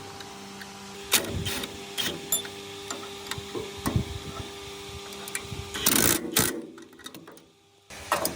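Workshop hand work on metal machine parts: scattered clicks and knocks of metal on metal and a few short scraping bursts, over a steady hum that stops about six seconds in.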